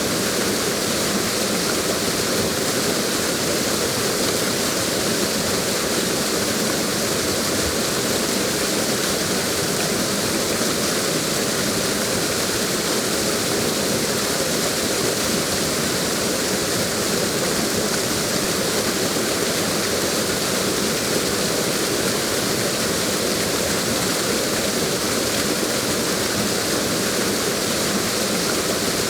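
Waterfall: falling water rushing steadily, an even hiss with no pauses or changes.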